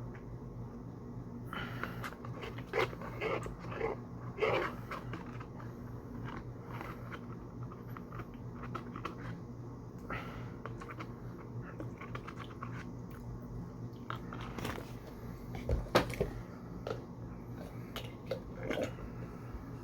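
Close-up eating sounds: bites and chewing in two bouts, a few seconds in and again near the end, with one sharp click about sixteen seconds in, over a steady low hum.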